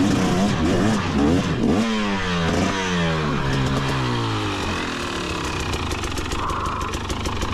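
KTM 250XC-W two-stroke dirt bike engine revving up and down in repeated blips of the throttle, its pitch then falling away about four to five seconds in to a lower, steadier run.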